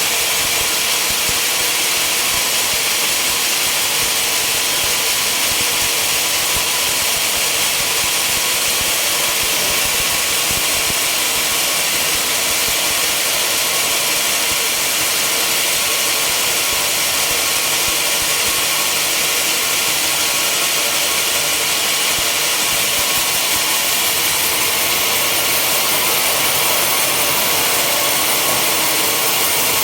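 Sawmill machinery running steadily, with a loud, even noise that neither stops nor changes.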